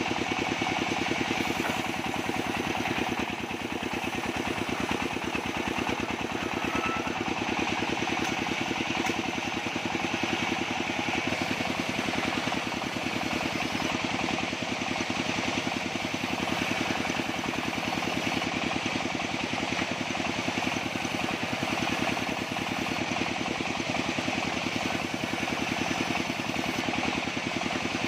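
Engine-driven bandsaw sawmill running steadily, the engine chugging evenly, with a continuous higher hiss from the running saw.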